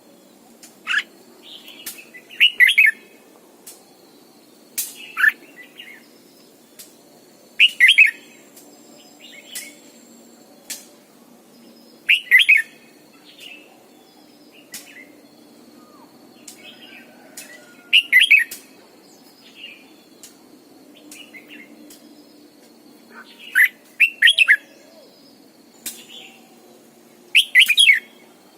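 Red-whiskered bulbul singing short, loud, warbled phrases that recur every few seconds, with softer calls in between.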